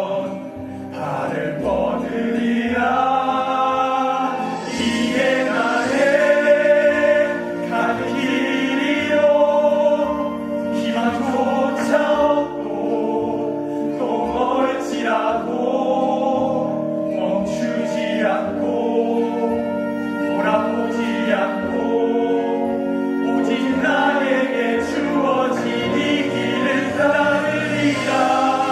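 A song sung by several voices together over a sustained instrumental accompaniment, the melody moving phrase by phrase.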